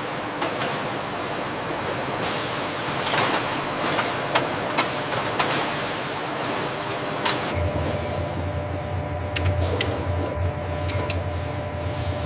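Factory machinery noise: a steady hiss with scattered sharp metallic knocks, and a low hum that comes in a little past halfway.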